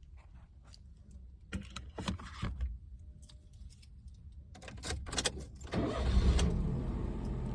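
A series of clicks and knocks, then a car engine starts about six seconds in and keeps running with a steady low rumble.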